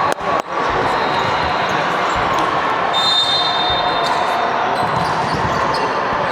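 Volleyball gym during play: a few sharp slaps, clapping or ball contacts, end about half a second in. Then comes the steady hubbub of the hall, with a brief high squeak about three seconds in.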